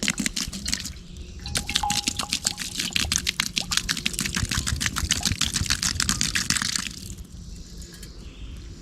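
Water pouring from a canteen into a Dakota fire pit to douse the last embers, splashing with a short break about a second in. The pour stops about seven seconds in.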